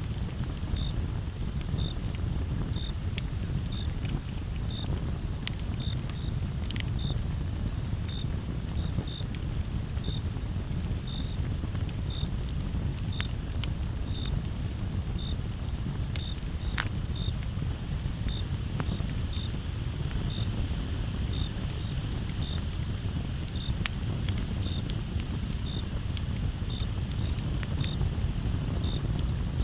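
Campfire burning with a low rumble of flames and scattered sharp crackles and pops. A cricket chirps evenly, a little more than once a second, over a steady high trill of more insects.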